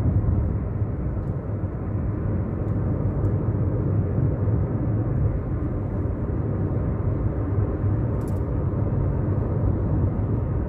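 Steady road noise of a car moving at highway speed, heard from inside the cabin: an even rumble of engine and tyres, strongest in the low end.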